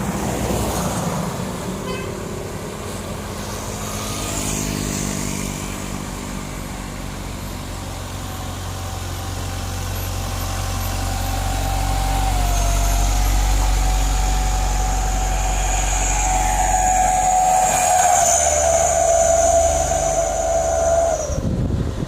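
Heavy truck engine labouring up a steep climb: a deep drone builds over the first few seconds and is loudest in the second half, with a steady high-pitched whine alongside. The sound drops away suddenly near the end.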